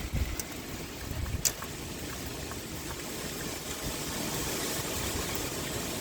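Steady pouring rain with gusts of wind rumbling low, and a few sharp drip taps, the loudest about a second and a half in.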